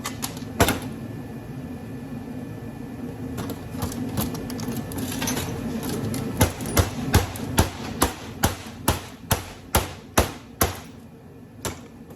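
Hammer blows on metal: one strike early on, then a quick run of about a dozen strikes at roughly three a second in the second half, as a part from a golf cart charger is beaten on to knock off attached metal.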